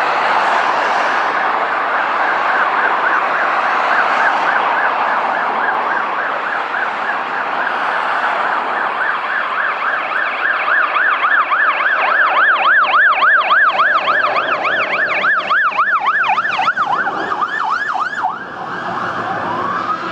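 Two fire-engine sirens on yelp, fast rising-and-falling sweeps about four a second, overlapping and loudest past the middle. Near the end the yelp stops and a slower rising wail begins.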